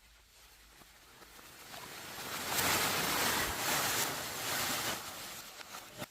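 A rushing, wind-like noise that swells over a couple of seconds, holds, then fades near the end, with a faint bird chirp.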